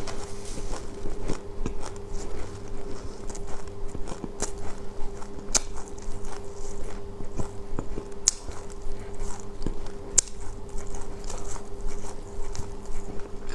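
Close-up chewing and crunching of black sesame seeds, a dense run of small crackles with a few sharper clicks every couple of seconds. A steady low hum runs underneath.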